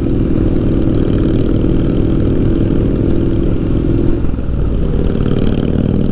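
Triumph Street Scrambler's 900cc parallel-twin engine running at steady riding revs. About four seconds in, the engine note dips and shifts, then holds steady again.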